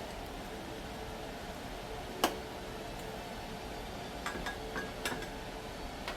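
Groceries being handled and set down on a kitchen counter: one sharp clink about two seconds in, then a few lighter clicks and taps near the end, over a steady low hum.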